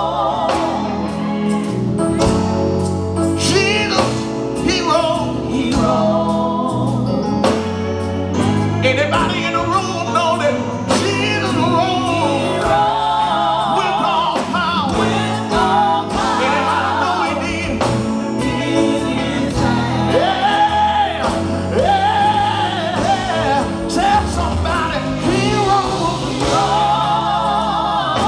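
Live gospel quartet singing with a band of guitar, bass and keyboard: a lead voice with heavy vibrato and group harmonies over a steady beat.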